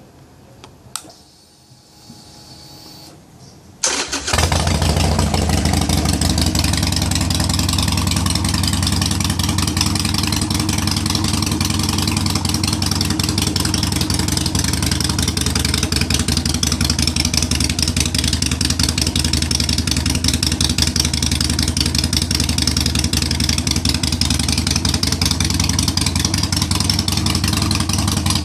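Harley-Davidson Sportster 883's air-cooled V-twin engine started up: after a few faint clicks it fires about four seconds in and settles into a steady idle.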